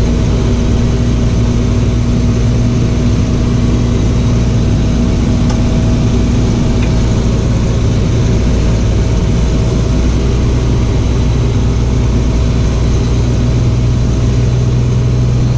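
Box truck's engine running steadily as the truck drives.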